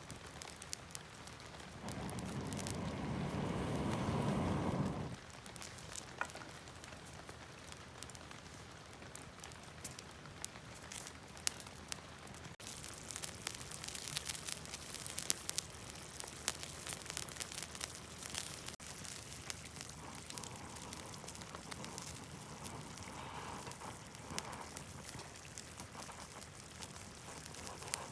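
Wood campfire crackling with many small sharp pops over a steady sizzling hiss of food cooking. About two seconds in, a louder rushing noise lasts for around three seconds.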